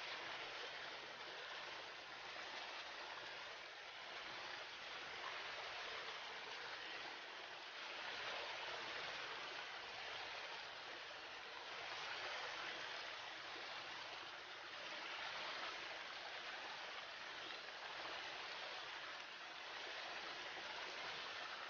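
River water rushing over stones in a steady hiss, swelling and easing gently every few seconds.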